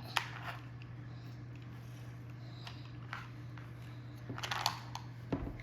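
Faint, scattered clicks and scrapes of plastic toy construction vehicles being handled in kinetic sand, with a small cluster of clicks about four and a half seconds in, over a steady low hum.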